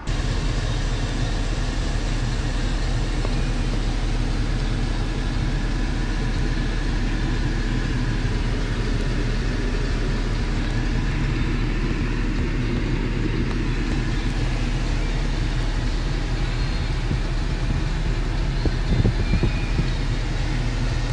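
Steady low hum of a 2014 Volvo XC60 idling, heard from inside the cabin.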